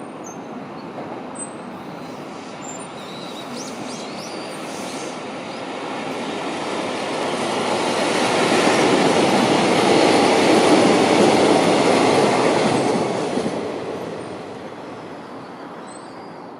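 Electric-hauled freight train passing on the rails, its wagons rolling by with wheel-on-rail clatter that builds to its loudest about ten seconds in and then fades as it moves away.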